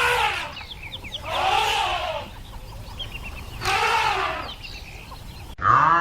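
Chickens calling: three drawn-out calls that rise and fall in pitch, about two seconds apart, with short high chirps between them.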